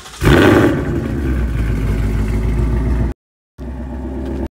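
Ford Mustang GT's 5.0-litre V8, with catless headers, an X-pipe and stock mufflers, starting up: the end of a brief crank, then a loud flare of revs about a quarter second in that settles into a steady idle. The startup reads about 120 dB on a meter at the tailpipes. The sound drops out for half a second about three seconds in.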